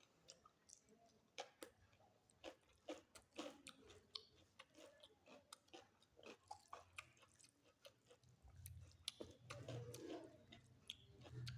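A person chewing mouthfuls of a meal of dal, mixed vegetables and salad, with many short irregular mouth clicks. A low hum joins about eight and a half seconds in.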